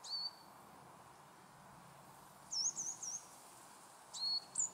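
A bird calling outdoors in short, high chirps: one at the start, three quick wavy notes about two and a half seconds in, and two more near the end, over faint steady background noise.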